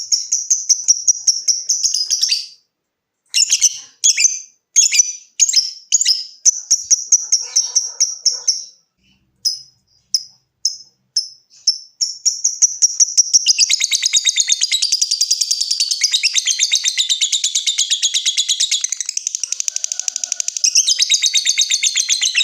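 Lovebird calling: a run of sharp, repeated high chirps (the "ngetik" call), then from about halfway a long, very rapid continuous chattering trill (the "ngekek") lasting about eight seconds, turning back into separate chirps near the end.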